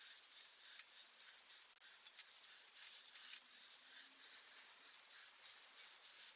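Faint, irregular scratchy scrubbing strokes: rust being rubbed off a bicycle's steel parts by hand.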